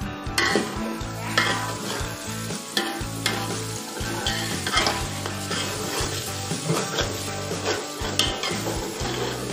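Onion-and-spice masala paste sizzling as it fries in a large metal pot, stirred and scraped with a metal slotted spoon, with irregular scraping strokes against the pot. This is the bhuna stage, frying the masala before the peas go in.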